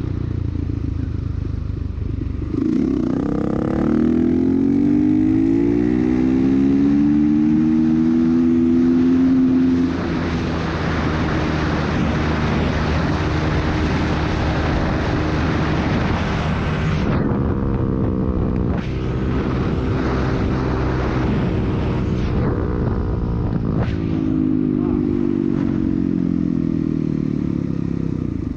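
Dirt bike engine accelerating, its pitch climbing steeply a few seconds in, then held at high revs at road speed. In the middle a loud rushing hiss covers the engine for several seconds and cuts off suddenly. Near the end the engine note rises and falls again.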